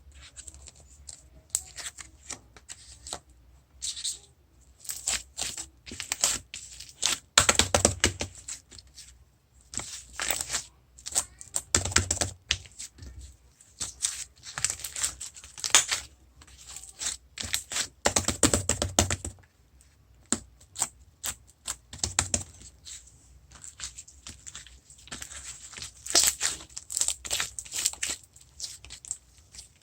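Glossy slime being squished and pressed by hand, giving dense runs of small sticky clicks and pops, with heavier squelches now and then.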